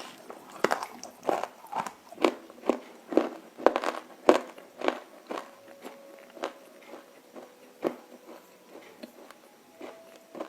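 Roasted edible clay (nakumatt) crunching as it is bitten and chewed: a quick run of sharp crunches about two a second, thinning out into fewer, softer crunches after about five seconds.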